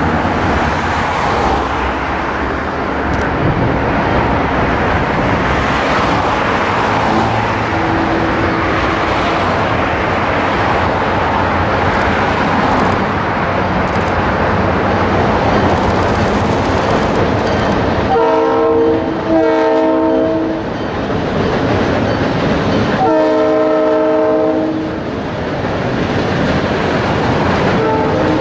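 Canadian Pacific diesel freight train running across a steel truss bridge, a steady rumble of engines and wheels on rail. In the second half the lead locomotive's multi-chime air horn sounds twice, the first blast broken briefly near its middle.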